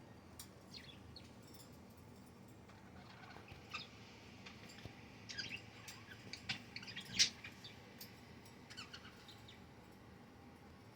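Budgerigars chirping: scattered short, high chirps that come thickest in the middle, the loudest about seven seconds in.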